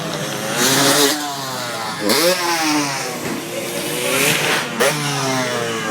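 Two-stroke motocross bikes revving up and down, their engine pitch climbing and dropping again and again, with loud bursts of throttle about one and two seconds in and again near the end.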